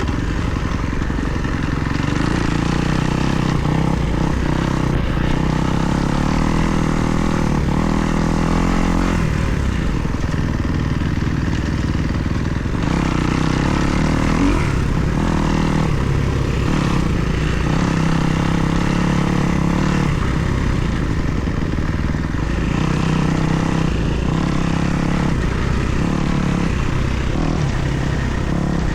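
Kawasaki KX250 four-stroke single-cylinder dirt bike engine running under riding load, its pitch rising and falling over and over as the throttle opens and closes.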